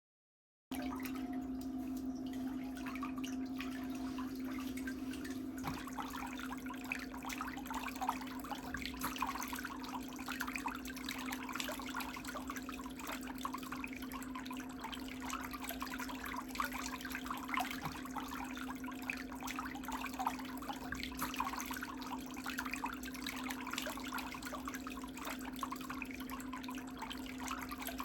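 A small electric motor humming steadily at one pitch, with a fine crackling hiss over it; it starts up just under a second in.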